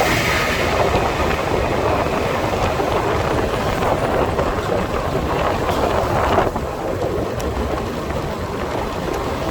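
Steady road noise from a motorbike being ridden through city traffic, with wind rushing over the microphone; it gets a little quieter and duller about six and a half seconds in.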